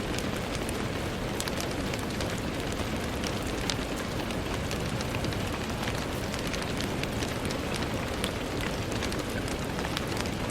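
Steady rain with a constant low wash and many fine, irregular drop ticks throughout, the sound of rain falling on a window.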